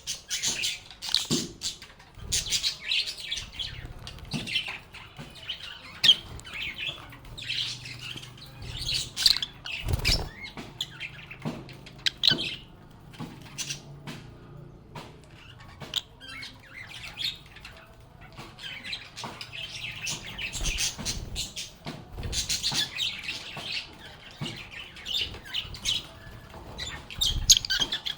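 A flock of lovebirds chirping and chattering in quick high-pitched bursts, easing into a quieter stretch about halfway through before picking up again.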